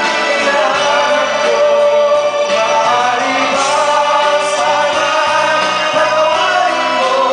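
A song sung as a duet over a backing track, the voices holding long notes.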